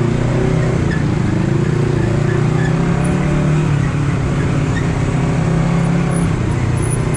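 Honda CBR250RR's parallel-twin engine and exhaust running while riding, a steady note that shifts slightly in pitch as the throttle changes.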